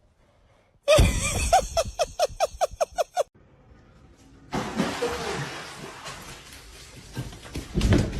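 A voice laughing in a quick run of about a dozen short ha-ha pulses, about five a second. A few seconds later comes a loud, noisy hiss-like sound lasting about four seconds, with a voice under it.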